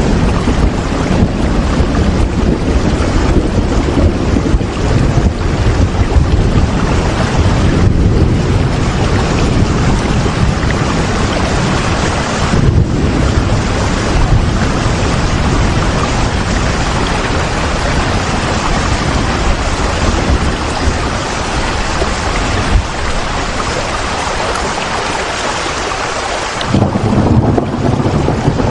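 Heavy rain as a dense, steady hiss with a strong low rumble underneath. Near the end the low rumble fades for a couple of seconds, then comes back abruptly.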